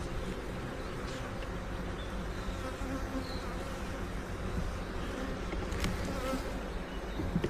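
Honeybees buzzing steadily around an open hive, a continuous hum of many bees, with a few faint clicks, likely frames being handled.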